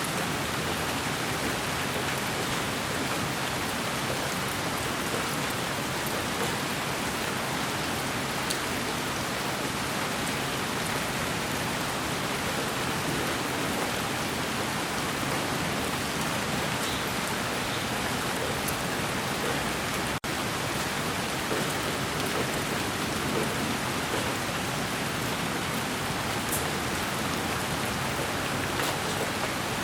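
Steady, even hiss of sleep white noise that sounds like rain, with faint scattered ticks like drops. It drops out for an instant about twenty seconds in.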